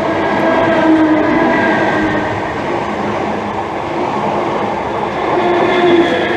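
Class 321 electric multiple unit passing through the station: steady rumble of wheels on rail with a whining tone that swells about a second in and again near the end.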